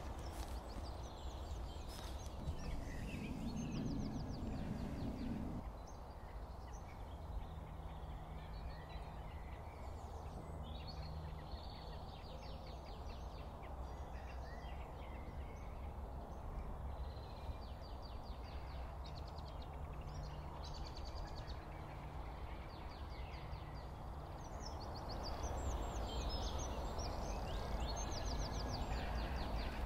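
Garden birds singing and chirping on and off, over a steady low outdoor rumble.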